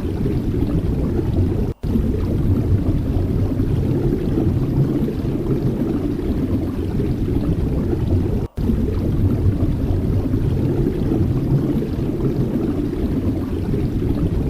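Steady low rumble of sea surf and wind on the microphone, cut out for an instant twice, about two seconds and eight and a half seconds in.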